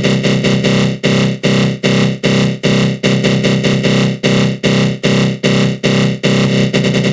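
Synthesized 'attack growl' sound effect: a dense, pitched synth tone from the GMS synth in FL Studio Mobile, shaped by a flanger, pulsing about two and a half times a second with brief drop-outs. About six seconds in, the pulsing gives way to a steadier, faster flutter.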